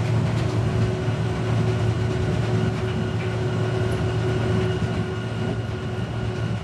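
Train running, heard from inside the car: a steady rumble with a faint, even whine held over it.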